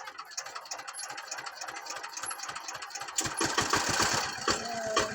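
Diesel engine chugging with evenly spaced firing beats. It is faint at first, then about three seconds in it turns suddenly much louder and deeper, beating about six or seven times a second.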